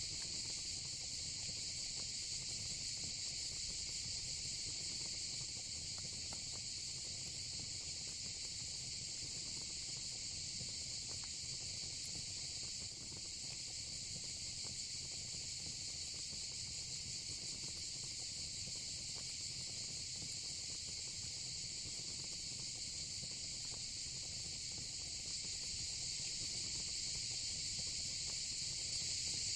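Steady chorus of chirring crickets over the soft crackle and low rush of fire-pit flames.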